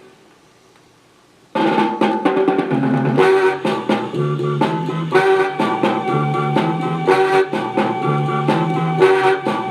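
Vintage RCA 45 EY2 record player playing an early-1960s instrumental R&B single. The track opens with about a second and a half of faint hiss, then the music starts abruptly with drums and horns.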